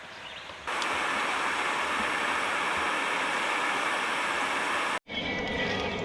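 Steady, even rush of flowing river water. It starts abruptly about a second in and cuts off about five seconds in.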